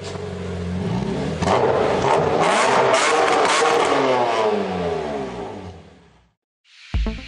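Renault Megane R26R's turbocharged 2.0-litre four-cylinder engine making a full-throttle pull on a chassis dyno, the revs rising steadily for several seconds before the sound fades away. Electronic music starts near the end.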